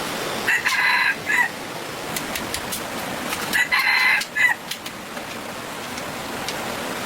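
A rooster crowing twice, each crow about a second long and the second about three seconds after the first, over a steady hiss of background noise.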